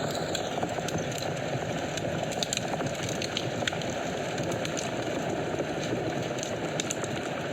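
Wood fire burning steadily, with a constant low rush of flames and many small crackles and pops scattered throughout.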